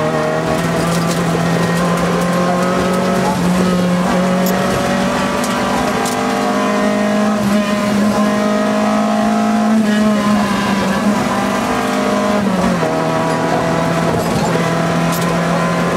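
Citroën AX rally car's engine running hard at high revs, heard from inside the cabin. Its pitch climbs slowly for several seconds, then drops sharply about thirteen seconds in and holds steady.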